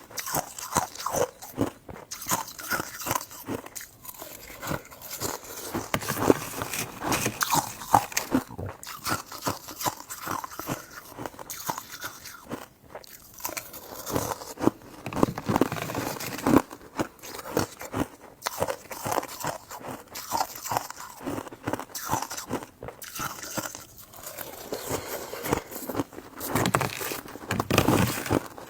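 Close-miked eating: a person biting into and chewing soft, chewy fruit jelly buns and mochi, with a steady run of quick, irregular mouth clicks.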